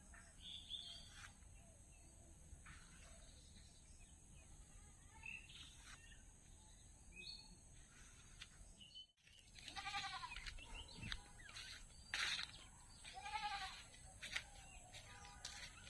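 Faint bird chirps, then after a brief break about halfway through, an animal calls twice with a wavering, bleat-like cry amid scattered small clicks.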